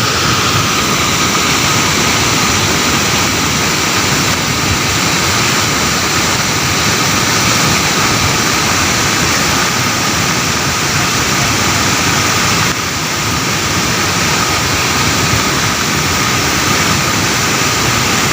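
Steady rushing vehicle and road noise, with a faint steady high tone running through it; the noise drops slightly about thirteen seconds in.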